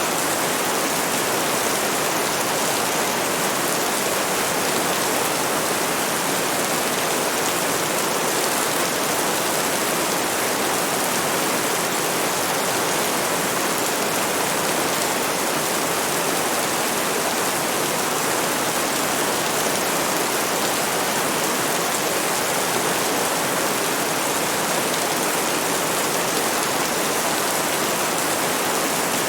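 Steady, dense rain falling, an even hiss without any distinct drops or thunder.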